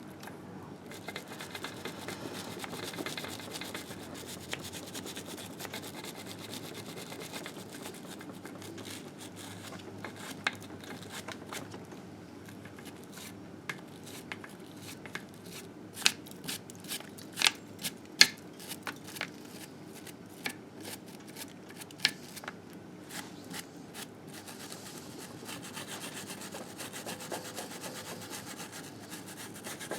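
Steady rubbing as grime is cleaned off a Harley-Davidson Sportster engine case, with a run of sharp clicks and taps through the middle.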